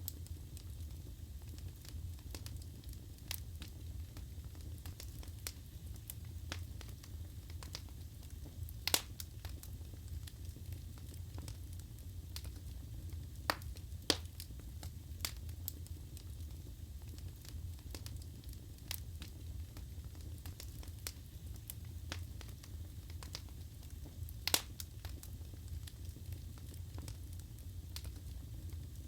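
Wood fire burning in a fireplace: a steady low rumble of the flames with irregular crackles and pops from the burning logs, a few sharper pops standing out.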